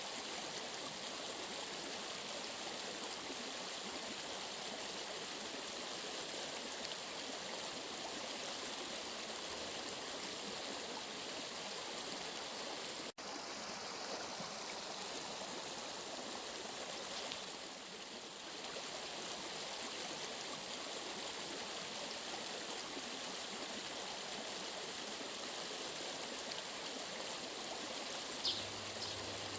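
Steady rushing and trickling of a flowing stream, with a sudden brief cut-out about halfway through.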